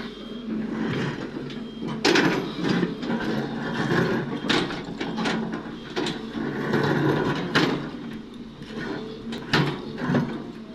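Cat 330D excavator working a load of quarry rock, with repeated metallic clanks and rattling scrapes of rock and steel over the diesel engine running steadily.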